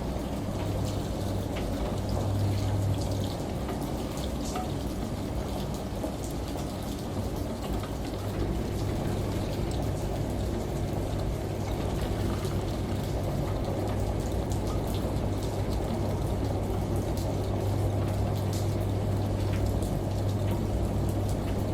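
Steady falling water, with scattered droplet ticks, layered over a steady low hum from a washing machine.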